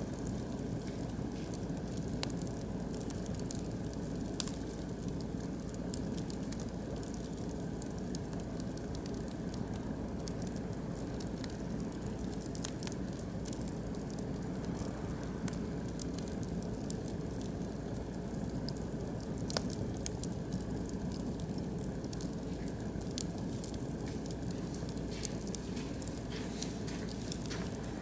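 Oak and beech wood fire burning, with scattered sharp crackles and pops over a steady low rush, a couple of louder pops about two-thirds of the way through.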